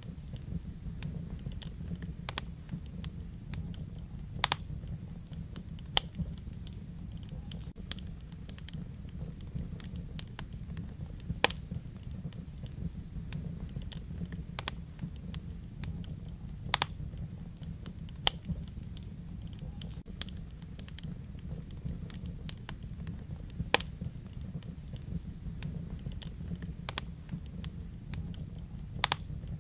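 Wood fire burning in a fireplace: a steady low rumble of flames with irregular crackles and sharp pops, a handful of them louder than the rest.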